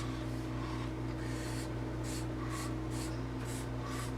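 Marker drawing on paper: a run of short scratchy strokes, about two or three a second, over a steady low hum.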